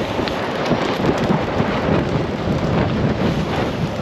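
Wind rushing over a moving camera's microphone during a BMX race run, a dense, steady rumble with rolling tire noise from the dirt track underneath.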